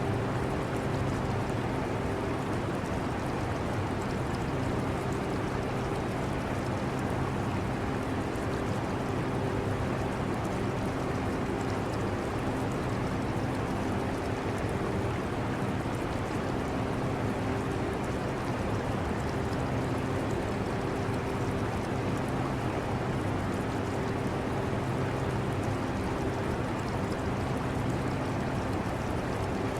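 Steady whooshing air-conditioner noise with a low hum, mixed with the trickle of water from an aquarium.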